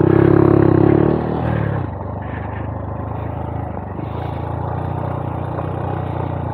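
Honda Monkey 125's single-cylinder engine, freshly rebuilt, running under throttle on a trail ride: loud for about the first second, then dropping to a steadier, quieter run.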